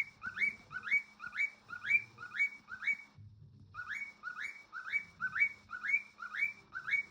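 Cockatiel whistling the same short rising note over and over, about two a second, each note swooping up and holding briefly at the top. There is a short break a little after three seconds in.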